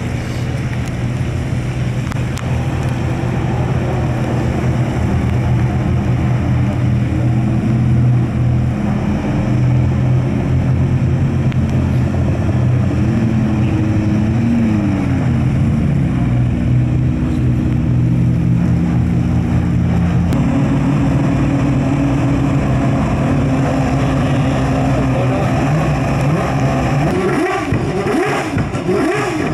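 High-performance car engines running with a low steady drone, their pitch stepping up and down several times as they are revved. Near the end, a couple of quick rising-and-falling sweeps as a car accelerates hard.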